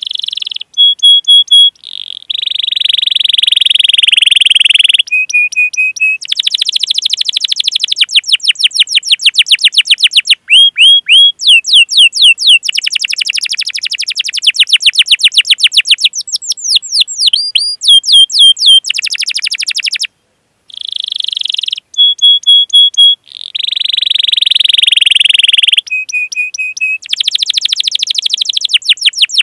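Domestic canary singing a long, rolling song: rapid trills of repeated rising notes alternate with held whistled notes and buzzy phrases, with a brief pause about two-thirds of the way through.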